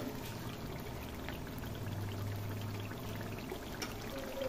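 Chicken pieces and masala frying in ghee in a large cooking pot: a steady sizzling hiss with a few faint crackles.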